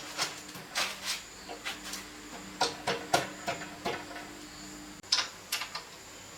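About a dozen irregular light clicks and taps, as small hard objects are handled or set down, over a faint steady hum.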